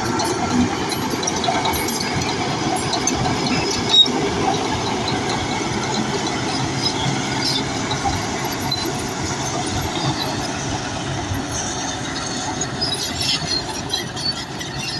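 Crawler bulldozer working, its engine running steadily under the clatter and squeal of its steel tracks, with one sharp knock about four seconds in.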